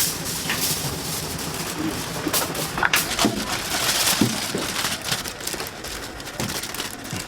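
Hot oil sizzling and crackling in a deep fryer as chicken fries, with faint voices underneath.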